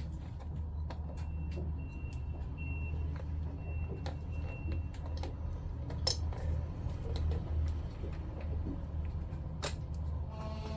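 Light clicks and taps of small pump parts being handled and fitted during reassembly, over a steady low hum, with two sharper clicks about six seconds in and near the end.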